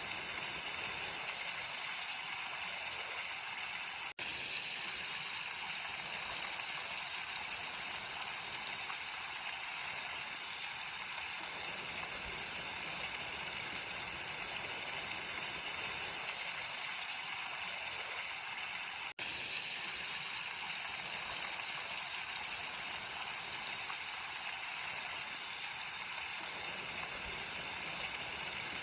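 Mountain stream running over rocks: a steady rushing hiss of water. It cuts out for an instant twice, about four seconds in and again near nineteen seconds.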